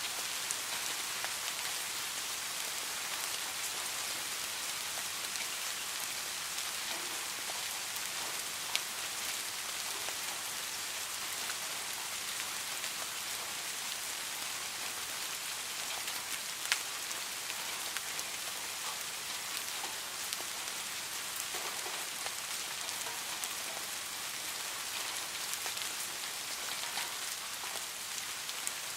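Steady rain falling, an even hiss with scattered light ticks and two sharper clicks about nine and seventeen seconds in.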